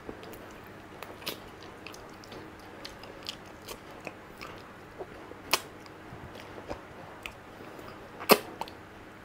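Close-miked mouth sounds of eating soft, creamy durian flesh: quiet chewing with scattered wet clicks, two sharper ones about halfway through and near the end.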